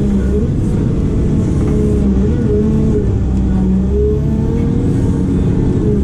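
Diesel engine of a heavy digging machine running steadily, its pitch wavering slightly up and down.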